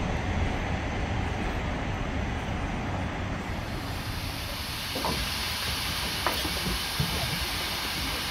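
Steam locomotive hissing steam over a steady low rumble; the hiss grows from about three and a half seconds in, and a few short knocks come in the second half.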